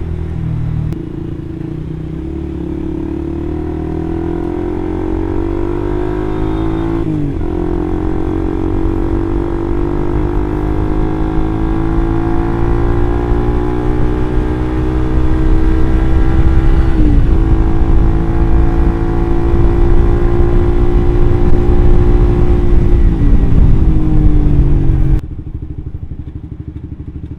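Suzuki GSX-R150's single-cylinder engine through an R9 Mugello aftermarket exhaust, deep and bassy, pulling through the gears while riding. The pitch climbs slowly and drops sharply at gear changes about 7 and 17 seconds in. Near the end it slows and falls abruptly to a quieter idle.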